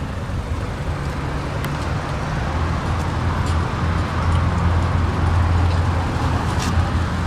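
Engine of a 2015 Mazda CX-5 idling with a steady low hum, which grows a little louder partway through.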